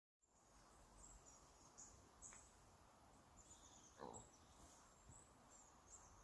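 Very faint forest ambience: soft high-pitched bird chirps come and go irregularly over a quiet hiss. One short, lower call sounds about four seconds in.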